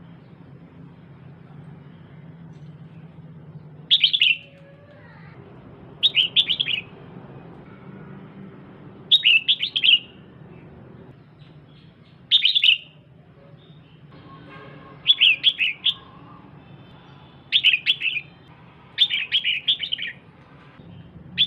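Female red-whiskered bulbul giving short bursts of quick, chattering calls, about eight bursts spaced a couple of seconds apart, starting about four seconds in over a faint low hum.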